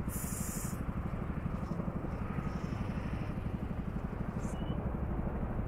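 Motorcycle engine running steadily while riding, its firing pulses even, with road and wind noise.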